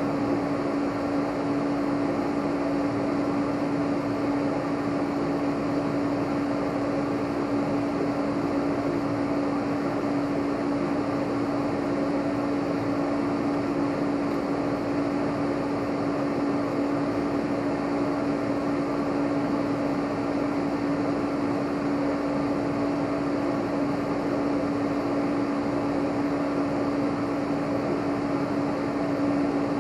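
Steady mechanical hum: one constant mid-pitched tone over an even hiss, unchanging throughout.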